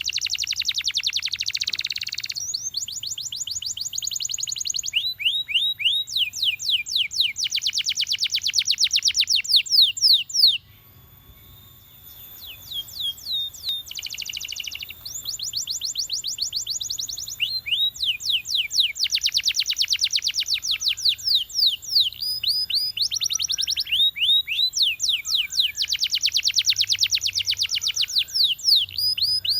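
Domestic canary singing: long rapid trills of repeated sweeping notes, changing from one trill to the next, with a brief break in the song about ten seconds in.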